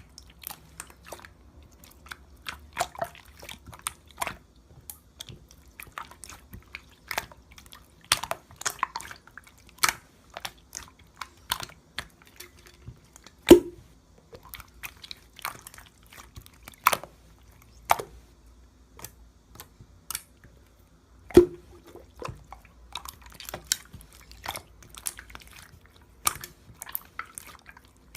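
Pink clear slime being squished and pressed by hand, giving irregular sticky clicks and wet pops, two of them much louder than the rest.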